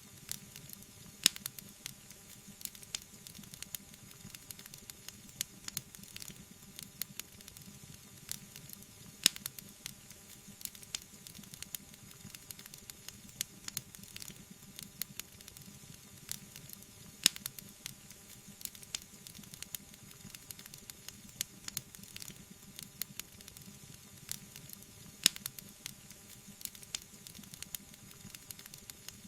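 Wood fire crackling steadily, with many small snaps and a few sharp, loud pops about every eight seconds.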